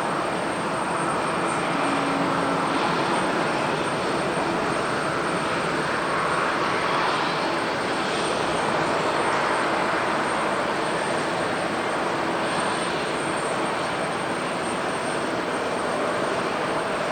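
Jet airliner's engines at close range during a takeoff or landing: a loud, steady rush that swells slightly towards the middle.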